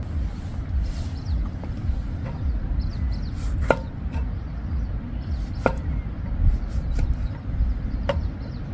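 Knife chopping food on a cutting board: irregular, separate sharp knocks, the loudest about three and a half and five and a half seconds in, over a steady low rumble.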